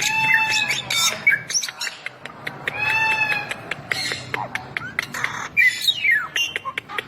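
Bali myna singing: a busy run of sharp clicks and harsh squawks, with arching whistled notes at the start and again about three seconds in, and a falling whistled glide near the end.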